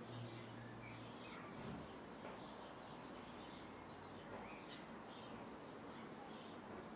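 Small birds chirping on and off over a faint, even outdoor background hiss.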